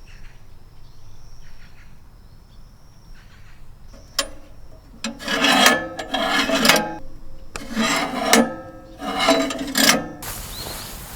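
Four rasping, scraping strokes in the second half, each under a second long, following a faint high steady chirring in the first half.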